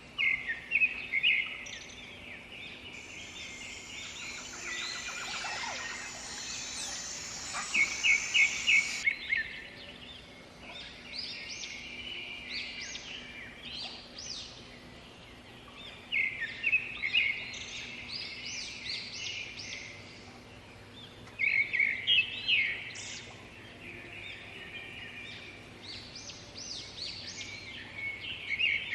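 Several birds singing and calling, one repeating a loud, quick chattering phrase every six seconds or so over the others' shorter calls. A high steady buzz runs for several seconds near the start and stops suddenly.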